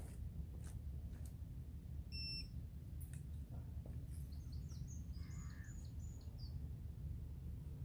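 Birds chirping over a steady low rumble, with a short high beep about two seconds in and a few faint clicks.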